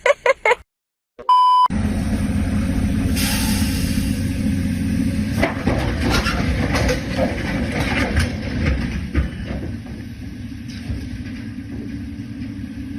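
A short beep-like tone, then a large vehicle's engine running steadily with a low rumble, easing a little in the second half.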